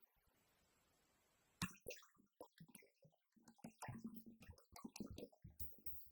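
Electronic drum kit being played: after about a second and a half of near silence, a sharp hit starts a quick, irregular run of drum strikes, with deeper hits near the middle and end.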